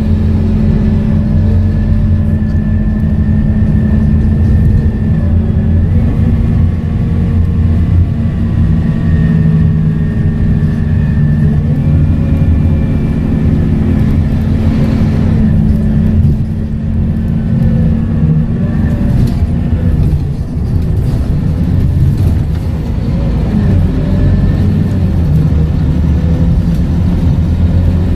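Scania K230UB bus's five-cylinder diesel engine running on the road with its ZF automatic gearbox, the engine and gearbox notes rising and falling in pitch as the bus speeds up and slows.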